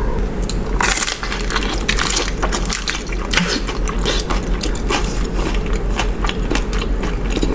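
Crunchy taco shells being bitten and chewed close to the microphone: a stream of irregular crisp crunches and crackles.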